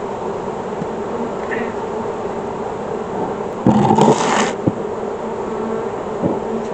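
Honeybees buzzing around a hive, a steady hum. A little over halfway through, a brief, louder rush of hissing noise cuts in for under a second, followed by a click.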